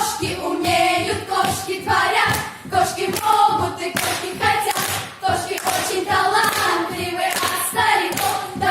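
Many voices singing together without clear words, with hand clapping throughout.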